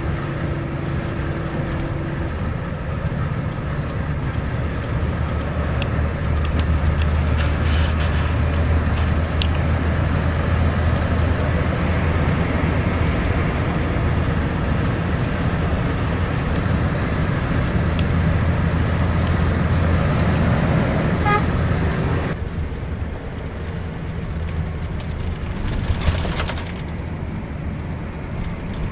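Scania K410iB double-decker bus running on the road, a steady low engine note with road noise. The engine grows louder about six seconds in and eases off near the end.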